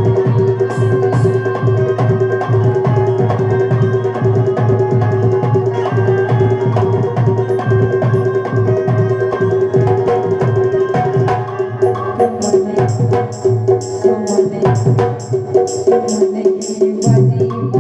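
Instrumental passage of Rai folk music: fast hand drumming over a steady held melody note. About twelve seconds in, a sharp, high clicking beat joins the drums.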